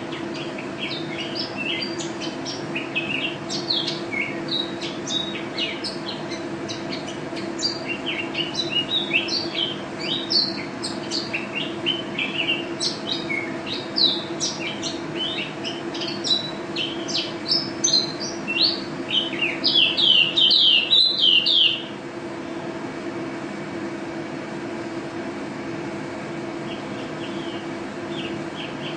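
Pleci (white-eye) songbird singing a fast, high twittering song of rapid chirps, densest and loudest just before it stops abruptly about 22 seconds in. A steady low hum runs underneath.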